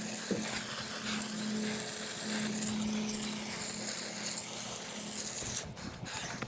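Steady hiss of water spraying from a garden hose nozzle, cutting off suddenly near the end, over a faint steady low hum.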